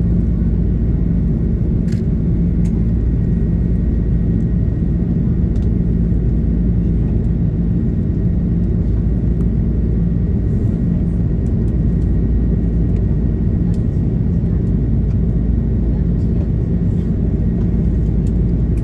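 Steady cabin drone of an Airbus A330-300 with GE CF6-80 engines: an even rushing noise with a low hum underneath and a faint high tone, unchanging throughout.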